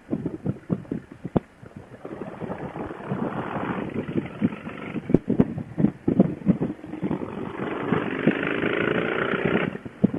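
Motorcycle riding sound picked up by a helmet intercom microphone: wind buffeting in gusty thumps, then the engine note climbing as the bike accelerates over the last few seconds, cut off suddenly near the end.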